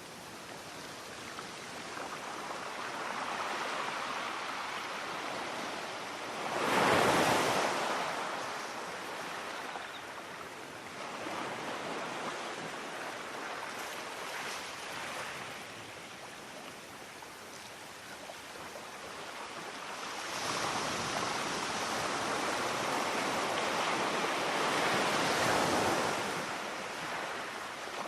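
Black Sea waves washing onto the beach, the surf swelling and fading, with one loud wave breaking about seven seconds in and a longer stretch of heavier surf near the end.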